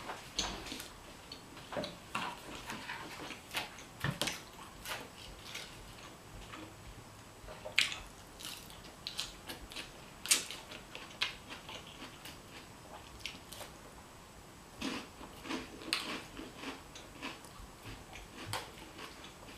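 Close-up eating sounds: salad of lettuce and croutons being crunched and chewed, with a fork clicking and scraping in a bowl. A few sharper clicks stand out about eight and ten seconds in.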